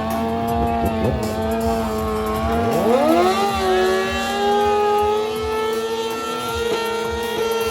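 Car engines running hard at high revs, one sweeping sharply up in pitch about three seconds in and then held there.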